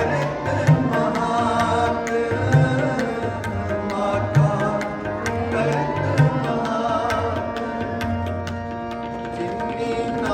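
Kirtan: voices singing a Sikh shabad to tabla accompaniment, over sustained held notes and regular low drum strokes.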